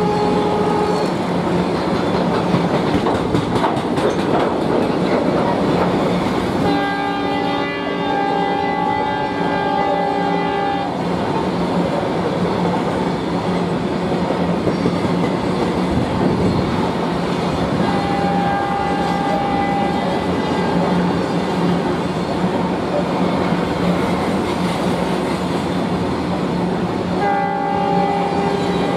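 A long freight train of BTPN oil tank wagons rolling past with a steady wheel-on-rail rumble and clickety-clack over the rail joints. A multi-tone locomotive horn sounds over it in blasts: briefly at the start, a long blast of about four seconds from about 7 s in, a two-second blast around 18 s, and another near the end.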